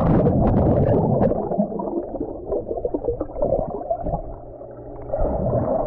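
Muffled underwater sound of pool water churning and bubbling, heard through an underwater camera, with scattered small clicks and knocks; it eases off briefly about four seconds in.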